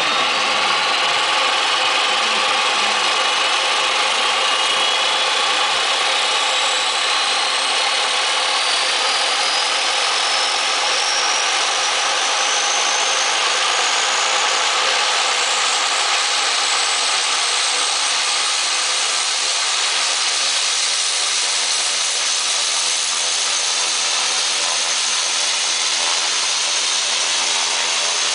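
Turboprop engine of a converted Cessna 195 starting up: a loud high whine rises steadily in pitch as the turbine spools up, then levels off at a steady idle, with a lower steady hum settling in during the second half.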